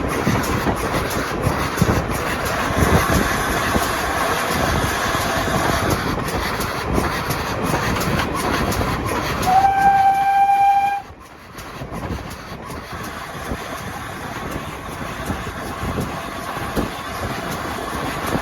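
A train running with rhythmic knocks from the wheels on the track. About halfway through it gives a single steady-pitched warning blast lasting about a second and a half, which cuts off sharply.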